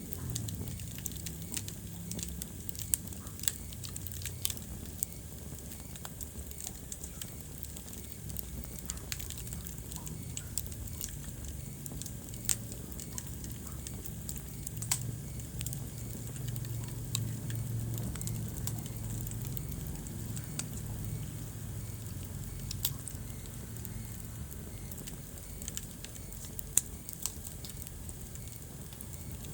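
Wood fire burning in a fireplace, crackling with irregular snaps and a handful of louder pops over a steady low rumble.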